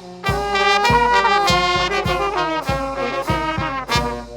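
A brass melody, trumpet-like, played in short detached notes over a backing track with a steady drum beat, about one beat every 0.6 seconds.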